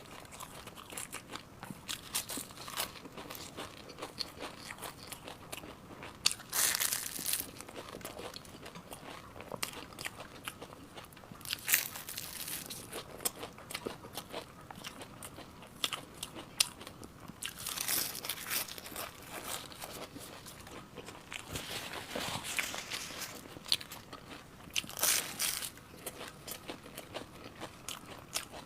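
Close-miked biting and chewing of crunchy food: a steady run of small crackling crunches, with louder crunchy bites every few seconds.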